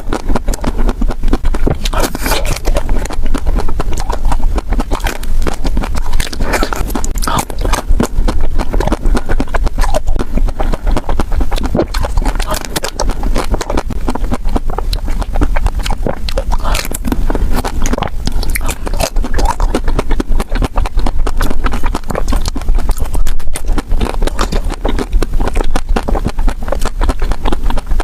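Close-miked eating sounds: chocolate ice cream being bitten into and chewed, with scraping and a dense run of crackling clicks.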